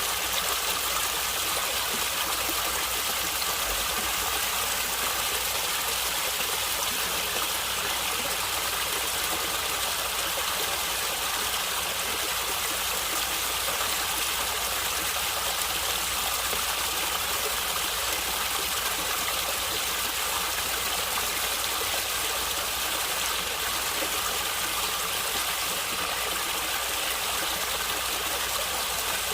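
Stream water running and gurgling in a steady, even rush.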